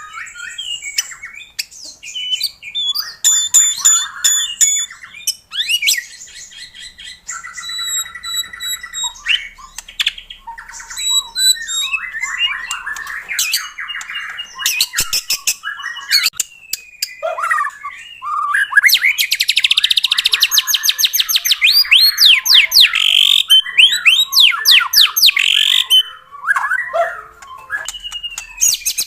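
White-rumped shama (murai batu) singing a long, varied song of whistled phrases and harsh chattering notes. About two-thirds of the way in it breaks into a loud burst of rapid rising notes.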